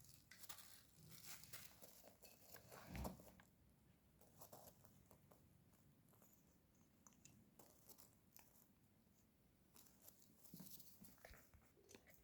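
Faint scattered clicking, crinkling and tearing, with a soft thump about three seconds in: an African grey parrot picking at and tearing something with its beak.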